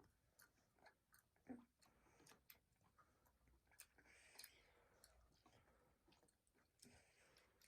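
Faint close-up chewing of tangerine segments: irregular small wet clicks and smacks of the mouth, with a brief juicier squelch about four and a half seconds in.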